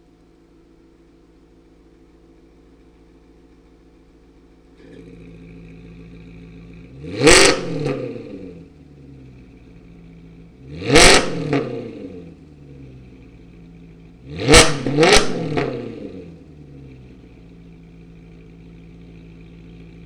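2011 Maserati Quattroporte Sport GT S's 4.7-litre V8 through a Power Craft aftermarket exhaust, idling with a steady burble that grows louder about five seconds in. It is then revved three times, with short sharp throttle blips, the last one a quick double blip, and each drops back to idle.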